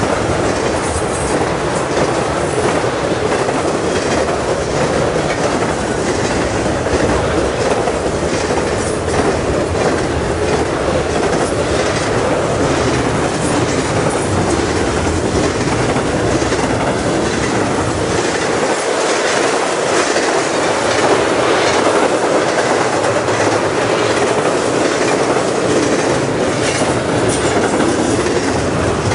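Union Pacific stack train's double-stack container well cars rolling past, a steady, loud clatter of steel wheels on the rails.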